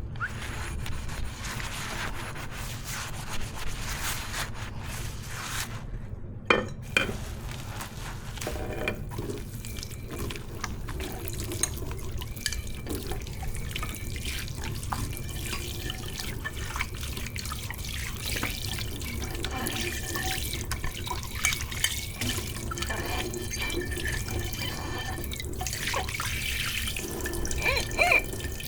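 Tap water running and splashing in a kitchen sink as dishes are washed, with scattered clinks and knocks of dishware, two sharp ones about six seconds in and a cluster near the end.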